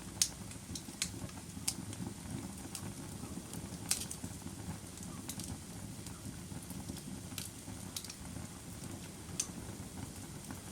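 Bonfire burning: a steady low rumble of flames with irregular sharp crackles and pops, the loudest about a quarter second in and near four seconds.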